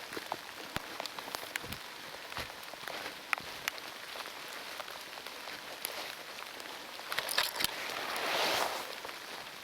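Heavy rain falling steadily, with scattered sharp raindrop ticks; a louder rush of noise swells up about seven seconds in and fades near the end.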